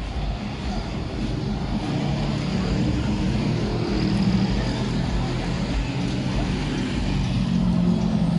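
A motor vehicle engine running on a busy street, its hum getting louder from about two seconds in, with background voices.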